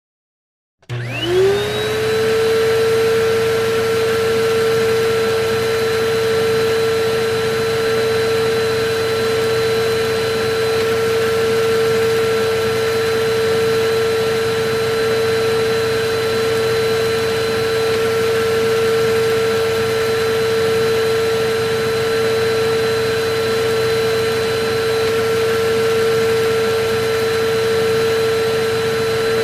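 Electric vacuum cleaner switched on about a second in: its motor whine rises quickly in pitch as it spins up, then it runs steadily with a rush of air.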